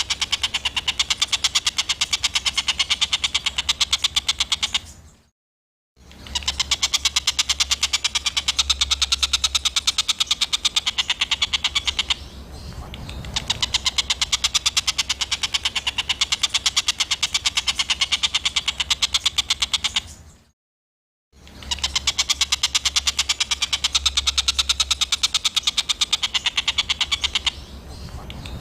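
Songbird call recording: a harsh, very fast rattling chatter, the 'tembakan kasar' burst of a masteran training track, playing in looped stretches that cut off abruptly twice.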